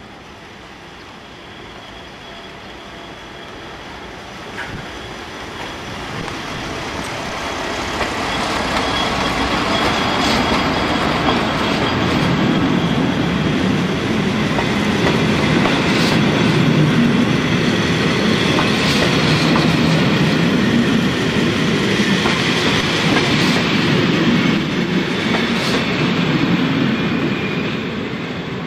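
A BLS Ae 4/4 electric locomotive and its train of passenger coaches roll past close by. The rumble grows over the first dozen seconds, holds, then fades near the end, with a few sharp clicks of the wheels over rail joints and points.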